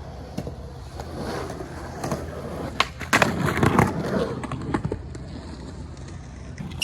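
Skateboard rolling on concrete, then a sharp pop of the tail about three seconds in and the clatter of the wheels landing as it ollies up a two-step, rolling on afterwards.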